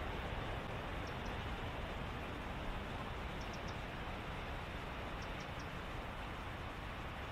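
Reedbed ambience at dusk: a steady background hiss and rumble, with faint, very short high chirps in twos and threes from a small animal calling in the reeds, about 1, 3.5 and 5.5 seconds in.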